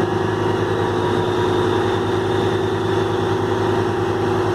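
Heavy truck diesel engine running steadily at idle, with an even low hum.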